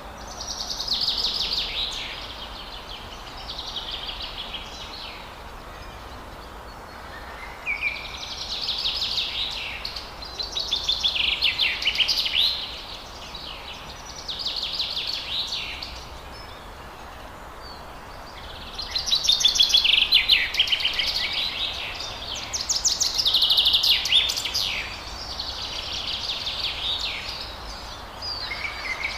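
Forest birds singing: high, rapidly trilled song phrases of about two seconds each, repeated with short pauses between them, over a steady background hiss. The loudest phrases come about two-thirds of the way through.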